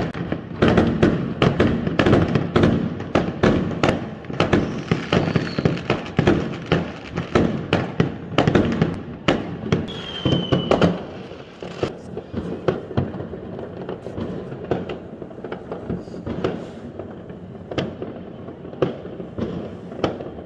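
Many aerial fireworks going off in rapid, overlapping bangs and crackles, dense for the first half and then thinning to scattered, quieter bangs. A short high whistle sounds about halfway through.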